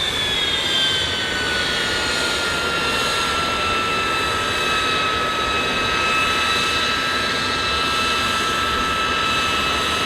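L-39 Albatros jet trainer's turbofan whining on the ground. Its whine falls in pitch over the first couple of seconds, then holds at a steady idle.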